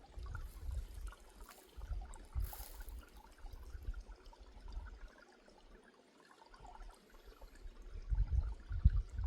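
Flowing water of a waterfall or stream as a faint steady rush, with gusty low rumbles of wind on the microphone that come and go. There is a brief hiss about two and a half seconds in.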